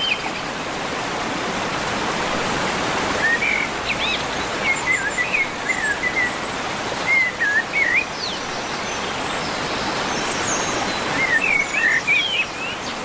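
Steady rush of falling water, with a songbird singing short warbled phrases in two spells: from about three seconds in for several seconds, and again near the end.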